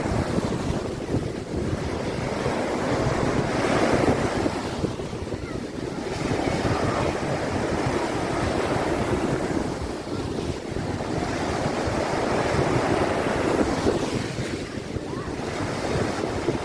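Sea surf breaking on the shore in a steady strong wind, the wash swelling and easing every few seconds. Wind buffets the microphone with a constant low rumble.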